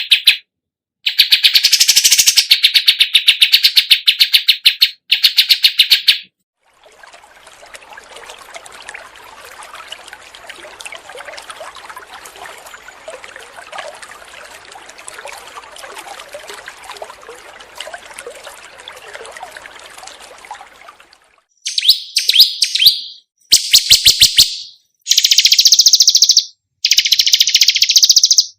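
Songbird recordings for song training. A loud, fast trill of rapidly repeated chirps runs for about six seconds, then a much quieter, busy, scratchy chatter for about fourteen seconds. From about twenty-two seconds on come loud separate bursts of high chirping.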